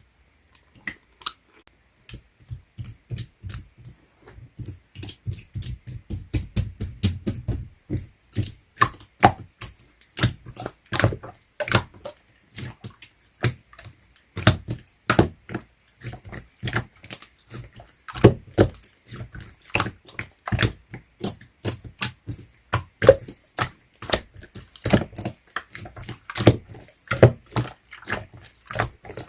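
Slime being squished and poked by hand, giving a dense, irregular run of sticky clicks and small pops.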